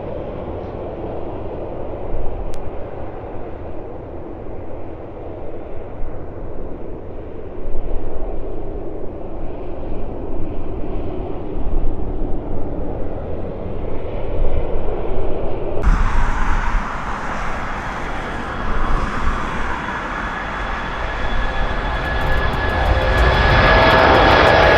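Jet engines of an Airbus A340-600, four Rolls-Royce Trent 500s, running at takeoff power: a steady, rushing engine noise. About sixteen seconds in the sound turns suddenly brighter. Near the end it grows louder, with high whining tones over it.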